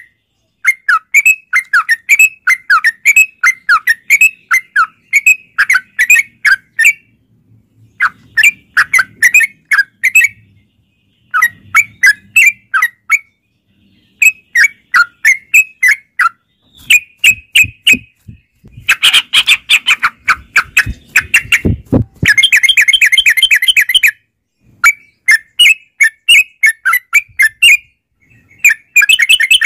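Yellow-vented bulbuls singing in fast, bubbly chattering phrases, the short notes run together in bursts a second or two long with brief pauses between. About two-thirds of the way through, the song turns dense and continuous, with a few low knocks mixed in.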